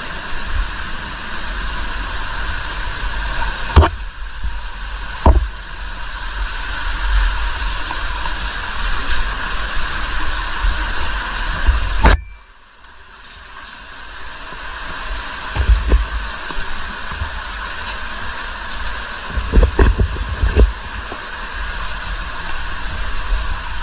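Steady rush of an underground waterfall running high after heavy rain, with a few sharp knocks and low thumps. About twelve seconds in the rush cuts out after a click and builds back up over the next couple of seconds.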